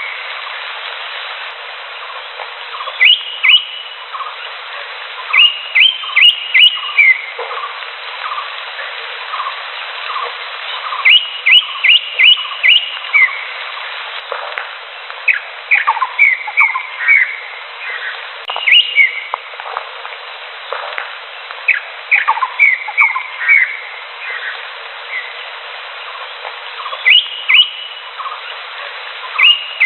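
Green leafbird (cucak hijau) singing: loud, sharp whistled notes in quick runs of three to five, repeated every few seconds, over a steady background hiss.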